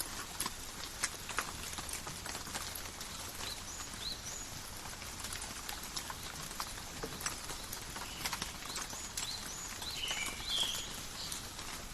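Steady forest rain, with individual drops pattering and tapping close by. Short high bird chirps repeat throughout, and a brief buzzy call comes about ten seconds in.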